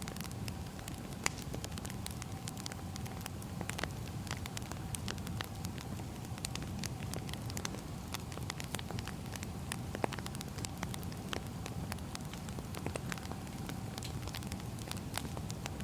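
Firewood burning, crackling with frequent irregular sharp pops over a steady low rumble.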